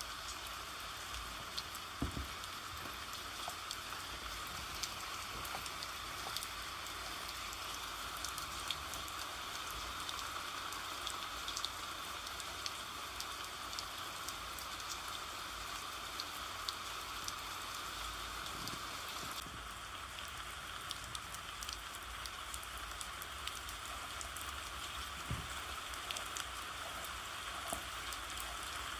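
Steady rain, a constant hiss full of small raindrop ticks. A few soft low thumps come through about 2 seconds in, and again later.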